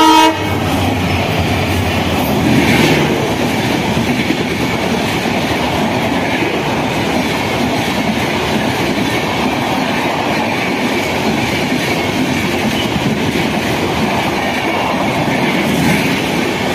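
An Indian Railways express train hauled by twin WDP-4 diesel locomotives passing close by. Its horn cuts off just after the start, then the coaches roll past with a steady rumble and the clickety-clack of wheels over rail joints.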